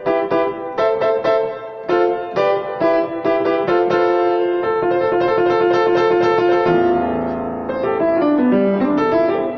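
Piano music: quick struck notes and chords, with a falling run of lower notes in the last few seconds.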